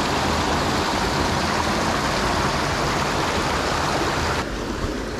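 Steady rush of a flowing stream. About four seconds in it suddenly drops a little in level and loses its highest hiss.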